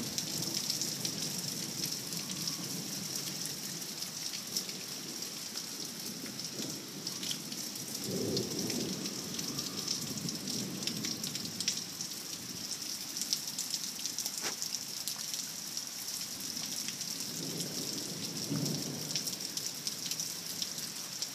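Heavy rain falling steadily, with scattered close drops from a dripping gutter. Low rumbles of thunder swell about eight seconds in and again around eighteen seconds.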